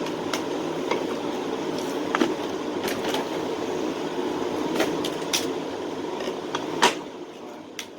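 A steady background hum under scattered small clicks and knocks of store-bought items being picked up and handled, with one sharper knock near the end.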